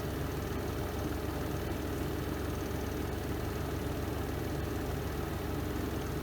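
Spin drum of a Renova semi-automatic twin-tub washing machine running steadily through its spin cycle, an even low motor hum with no change in speed.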